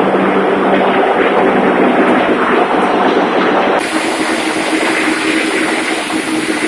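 Loud, steady din of a ship's engine-room machinery, with running diesel engines and a constant hum. About four seconds in, the sound changes abruptly to a different hum.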